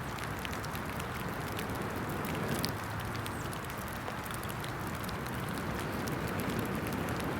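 Breath blown onto a small fire of wet sticks to feed it oxygen, in two long low rushes, about two seconds in and again near the end. Underneath, rain patters steadily and the fire crackles with fine sharp ticks.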